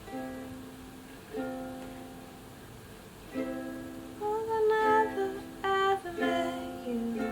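Ukulele strummed in slow chords, each left to ring before the next. About four seconds in, a voice hums a wandering melody over the chords.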